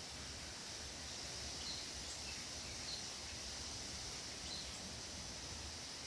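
Forest ambience: a steady high insect drone with a few short, high bird chirps scattered through it.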